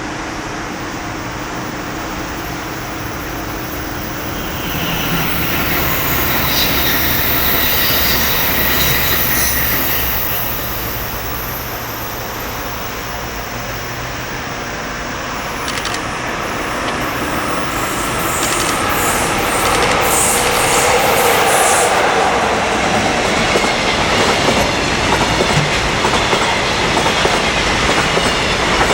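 JR Freight EF66 electric locomotive hauling a freight train past, then the freight wagons rolling by with a rhythmic clickety-clack of wheels over rail joints and some high wheel squeal. The sound swells about five seconds in and again in the second half.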